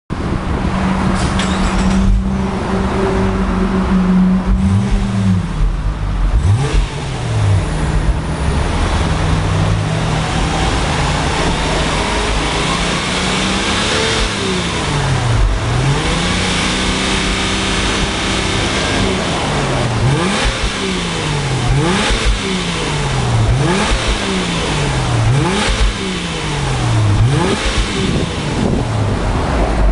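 Exhaust note of a Subaru Outback 3.6R's flat-six engine through a Kakimoto KRnoble Ellisse aftermarket muffler, running steadily at first and then revved up and let fall back again and again, about every second and a half, through the second half.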